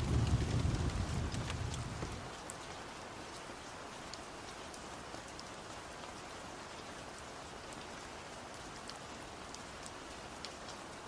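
Steady rain hiss with scattered sharp ticks. A low rumble of thunder dies away about two seconds in.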